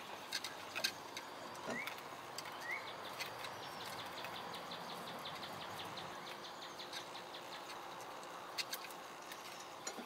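Faint bird chirps over a steady hiss: two short rising chirps, then a quick run of high ticking notes. A few soft clicks come from leather lace being braided by hand.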